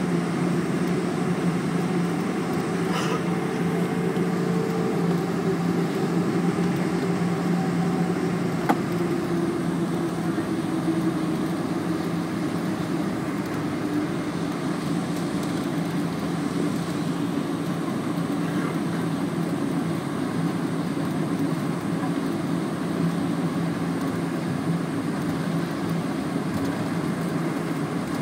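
Steady cabin noise inside a Boeing 777 airliner: engine hum and airflow at an even level, with a faint tone that sags slightly in pitch over the first several seconds. A single short click sounds about nine seconds in.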